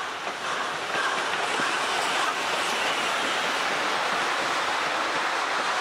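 Steam-hauled passenger train passing close by, the carriage wheels rolling on the rails; the noise grows louder about a second in and then holds steady.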